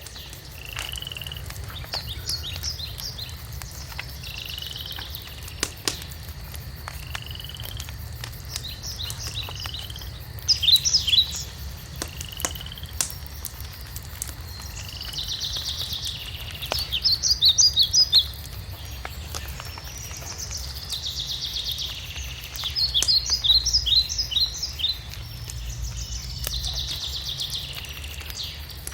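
Birds singing: a short whistled note repeats about every two seconds, and bursts of rapid high trilling come several times. Under them run a fireplace's faint crackles and a steady low rumble.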